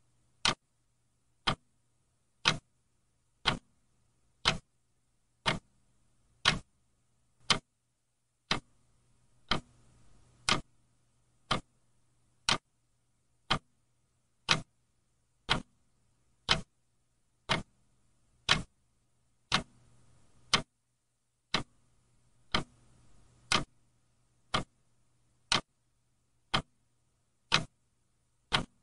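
Clock ticking steadily, one sharp tick about every second, with a faint low hum underneath.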